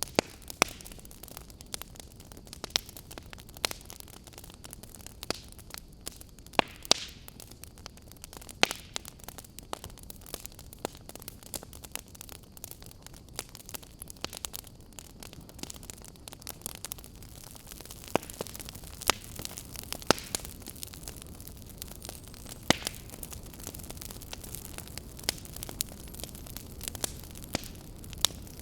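Wood fire burning in a fireplace, crackling: a steady low hiss with sharp pops and snaps a few times a second, scattered irregularly.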